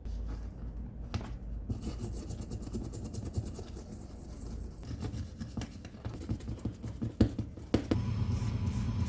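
Hand scrubbing and scraping on a metal tool part, with scattered clicks and knocks as the part is handled.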